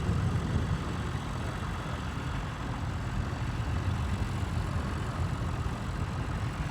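Tractor engine running steadily at low revs, a low rumble with no change in speed.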